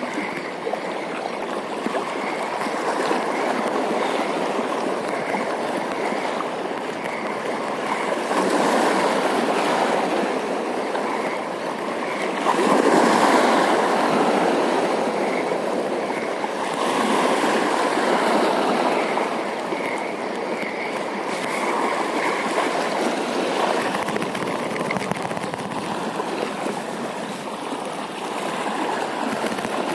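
Rushing water of a shallow stream, steady, swelling louder a few times.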